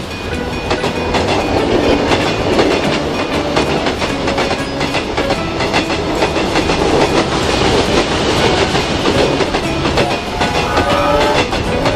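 A passing train, its wheels clattering rhythmically over the rail joints in a steady, dense rumble.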